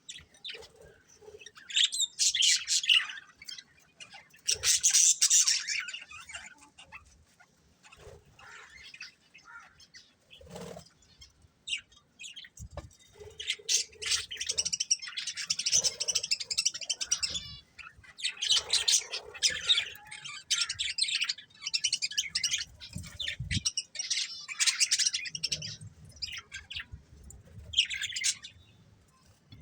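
Pet budgerigars chirping and chattering in rapid bursts, with short quieter gaps between the bursts.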